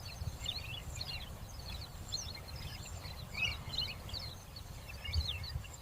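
Birds chirping in many short, quick calls, over a faint low rumble.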